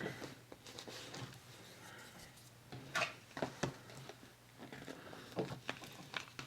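Paper being handled and pressed down on a work table: faint rustling with a few light taps and clicks, the sharpest about three seconds in and again near the end.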